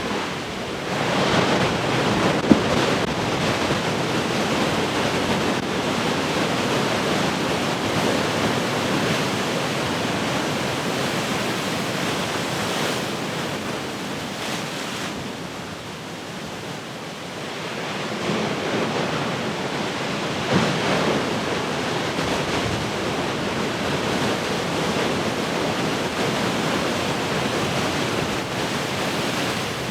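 Heavy ocean surf: waves breaking and washing ashore in a continuous rush of noise. It swells with a fresh break about a second in and again around eighteen seconds, with a brief sharp crack twice.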